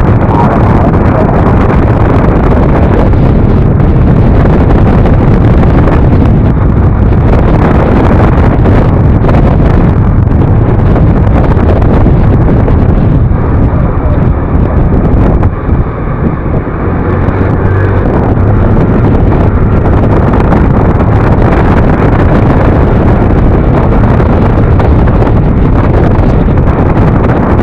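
Loud, steady wind rush on the microphone of a rider on a moving Yamaha NMAX Turbo scooter, with the scooter's engine and road noise underneath. It eases briefly about halfway through.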